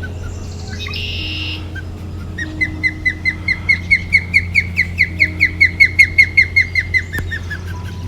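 Osprey calling: a long run of about two dozen short, sharp whistled notes, about five a second, growing louder and then trailing off.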